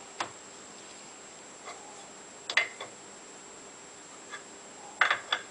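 A few short, sharp clicks and clinks of metal hand tools being handled, in three small groups, over a quiet steady background hum.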